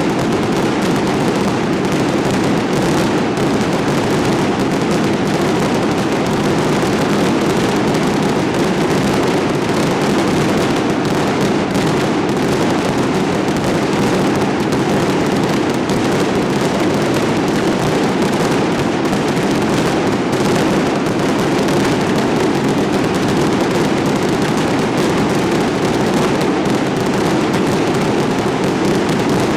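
Fireworks display in full swing: a dense, unbroken barrage of bursts and crackling that merges into a steady rumble.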